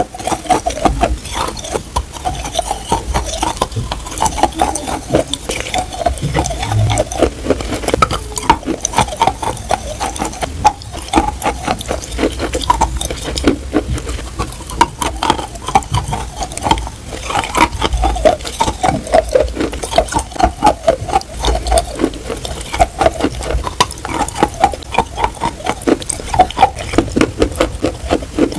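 Edible chalk being bitten and chewed close to the microphone: a dense, rapid crunching, several crunches a second, going on throughout.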